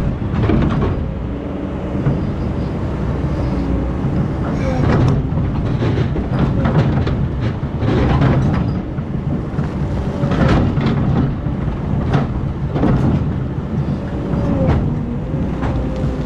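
Hydraulic excavator working: a steady engine rumble under irregular metal clanks and knocks, with a mid-pitched whine that bends in pitch a few times.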